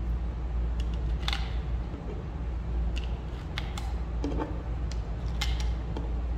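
Pistol cartridges being pressed one by one into a Magpul 17-round Glock magazine: a handful of short, sharp clicks at irregular intervals over a steady low rumble.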